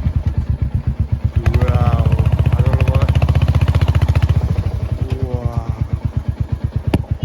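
Royal Enfield Hunter 350's single-cylinder engine running under way, a steady low pulsing beat. Its pitch rises as the bike accelerates, twice. A single sharp click comes near the end.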